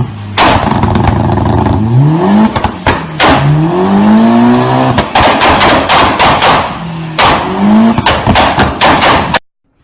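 A car engine revving hard, its pitch climbing and levelling off three times, over loud rushing noise and sharp knocks, typical of a race car accelerating through its gears. It cuts off suddenly near the end.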